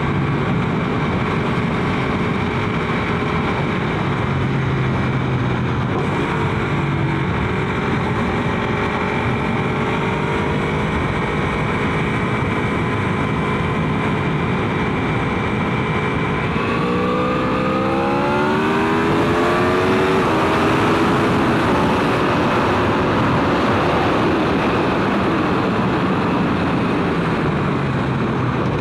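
Aprilia RSV4 RF's V4 engine running at a steady cruise under wind noise. About two-thirds of the way through, the revs climb steeply for a few seconds under hard acceleration, then hold at a higher pitch as the wind grows louder.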